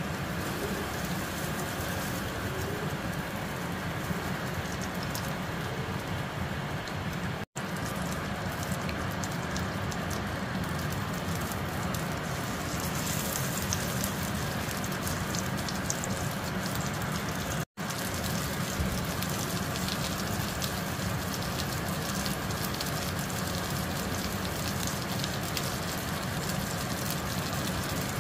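Breaded chicken schnitzel sizzling and crackling steadily in hot oil in a frying pan, over a steady low hum.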